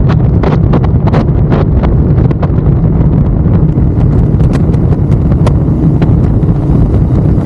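Ducati Monster's V-twin engine running under way, drowned in heavy wind noise on the microphone, with frequent short sharp taps scattered through.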